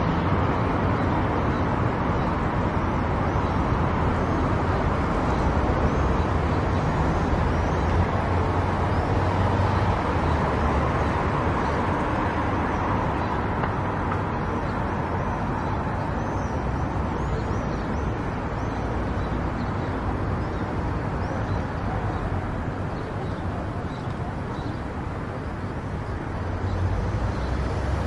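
A car driving along a road: steady engine drone and tyre-on-road noise, easing a little near the end.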